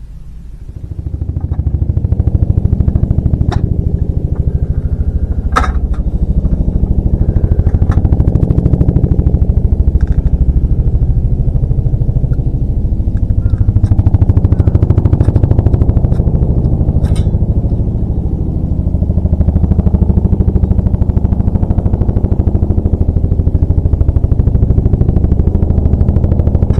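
A motor vehicle's engine running steadily, a low drone that builds up over the first two seconds, with a few short clicks over it.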